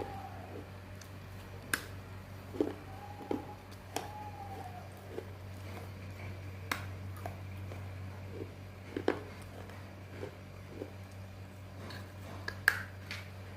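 Crunchy bites and chewing: sharp, brittle cracks every second or so, the loudest near the end, over a steady low hum.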